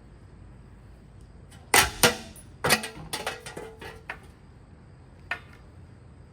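Hard blows on a Hampton Bay Waterton ceiling fan as it is smashed: two loud strikes close together, a third about half a second later, then a second of smaller knocks as pieces clatter, and a last knock near the end.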